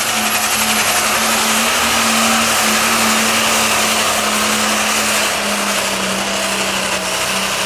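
Super stock pulling tractor's engine running flat out under load, loud and steady with a high whine over it, its pitch sagging slightly after about five seconds and the sound dropping away at the very end. The engine is one the announcer calls sick.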